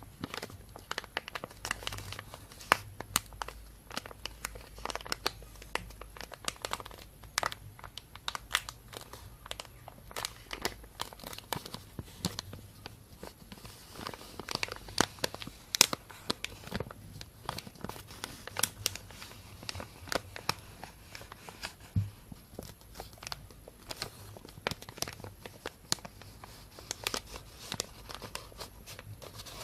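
Thin plastic bag being handled and crumpled, giving a continuous run of irregular crinkles and sharp crackles.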